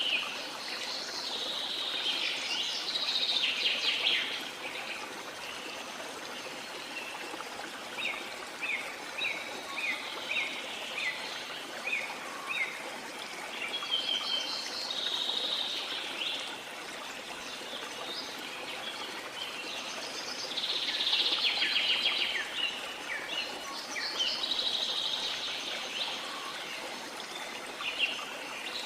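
Rainforest ambience: a steady hiss of falling or running water with several birds calling over it. The calls come in clusters of chirps and trills, with a run of short repeated chirps, about two a second, in the middle.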